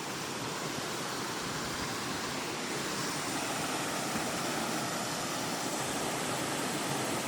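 A small waterfall on a rocky creek, with water rushing steadily.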